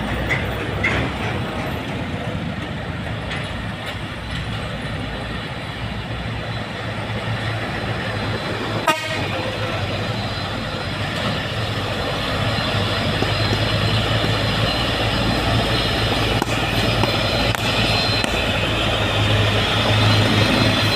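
Heavy diesel truck engine labouring uphill, the low drone growing louder in the second half as the truck comes closer. There is one sharp click about nine seconds in.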